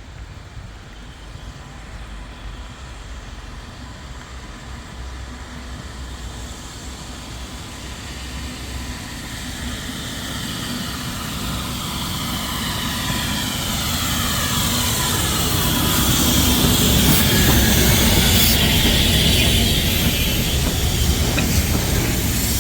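Steam train approaching and going by, growing steadily louder and loudest about three-quarters of the way through, with high tones sliding downward as it passes and a few sharp clicks near the loudest point.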